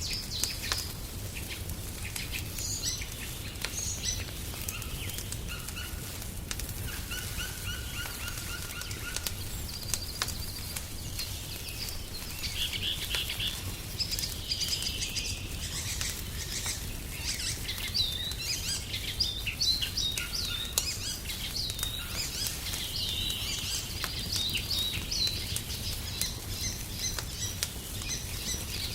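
Wild songbirds chirping and singing, busier in the second half, over the scattered pops and crackles of a wood fire and a low steady rumble.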